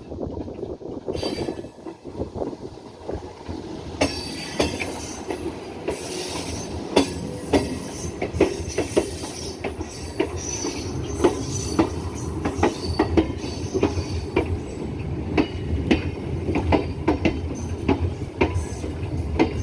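MEMU electric train running on the rails: repeated sharp wheel clacks over rail joints with a steady rumble and high-pitched wheel squeal, picking up about four seconds in.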